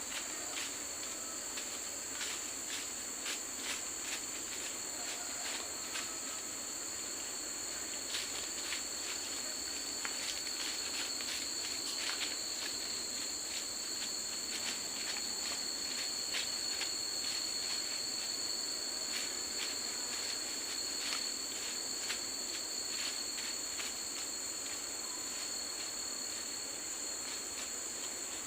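Continuous high-pitched chorus of forest insects, a steady shrill buzz that holds the same pitch throughout. Irregular light clicks and taps come through it all along.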